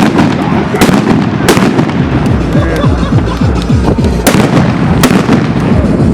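Firework bangers going off, with four sharp loud bangs about 0.8, 1.5, 4.3 and 5 seconds in, over background music.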